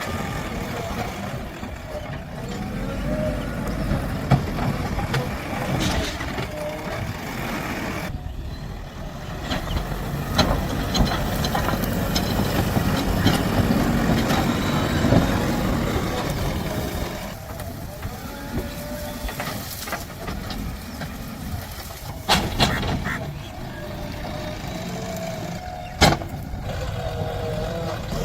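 JCB 3DX backhoe loader's diesel engine running under working load, rising and falling in pitch as the hydraulics work. It is loudest in the middle, with a few sharp metallic clanks late on.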